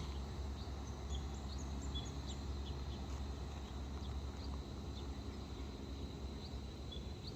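Small birds chirping, many short high calls scattered throughout, over a thin steady high insect drone and a low steady rumble.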